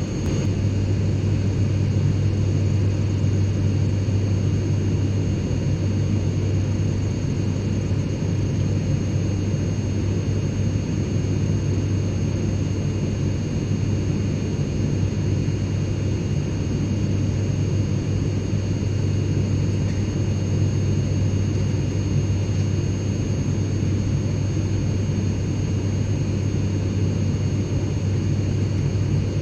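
Airliner cabin noise in flight: a steady low rumble of engine and airflow, with faint steady high whines above it, unchanging throughout.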